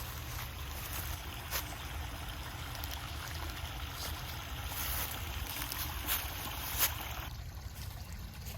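Small creek babbling steadily over rocks, with a few sharp clicks.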